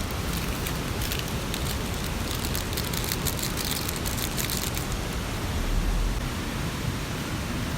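Steady rain at a wet stream-side campsite, an even rushing hiss, with a flurry of small sharp ticks during the first five seconds or so.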